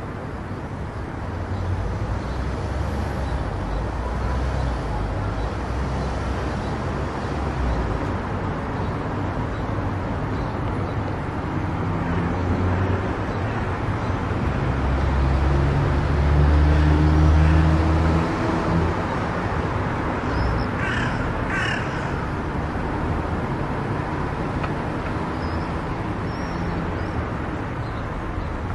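Steady road and tyre noise of a car at highway speed, with a low rumble that swells and then eases between about 12 and 18 seconds in. About 21 seconds in come two short, high-pitched sounds in quick succession.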